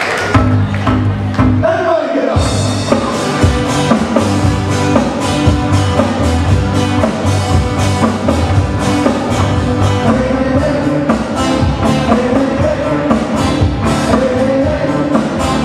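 Live band playing Hawaiian music, with electric guitar and a drum kit keeping a steady beat.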